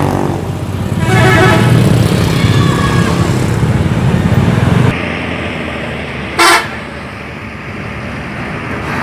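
A vehicle horn tooting over a loud engine rumble, with the rumble dropping away about five seconds in and a short sharp sound a moment later.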